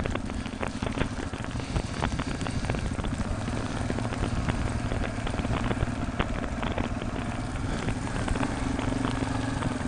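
Motorcycle engine running steadily at low speed, under a dense patter of small ticks from icy snow falling.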